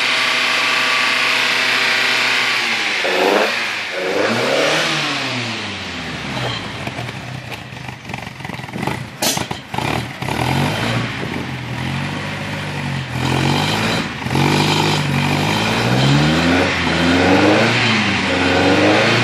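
Datsun 160J Violet's freshly rebuilt engine running after its first start-up, held steady for a few seconds and then revved up and down repeatedly. A few sharp cracks come about halfway through.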